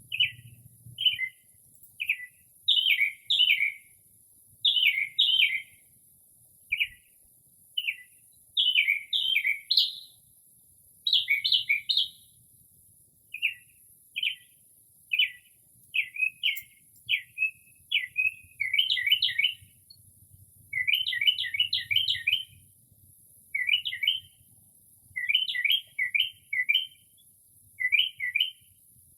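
Northern mockingbird singing at night, mimicking the calls of other birds: a string of short, clipped phrases about one a second, many given two or three times in quick succession.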